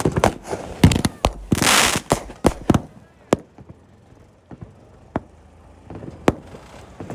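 Fireworks going off: a rapid string of sharp bangs over the first three seconds, with a longer hissing burst among them, then single bangs a second or two apart.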